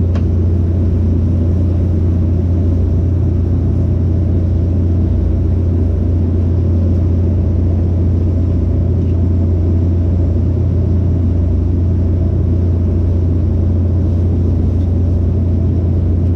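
Steady low engine drone of a boat under way, unchanging throughout.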